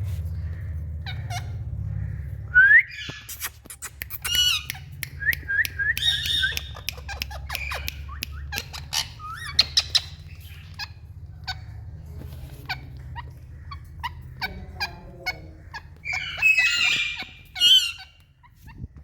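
Indian parrots calling: a rising squawk about three seconds in, then scattered squawks, chirps and clicks, with a quick run of repeated calls and a burst of shrill calls near the end, over a low steady hum.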